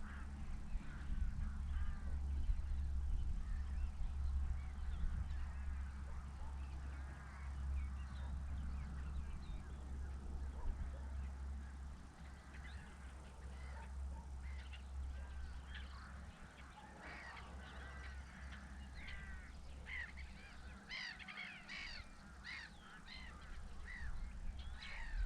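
Several birds giving short, repeated calls, sparse at first and growing busier in the second half, over a low steady rumble that fades out around the middle.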